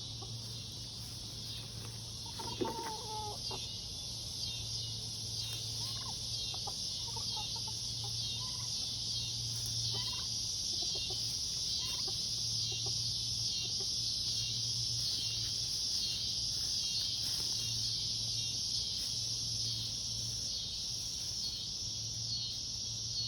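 Backyard poultry, chickens and turkeys, giving occasional soft clucks and short calls, the clearest a few seconds in. Under them runs a steady high drone of insects and a low steady hum.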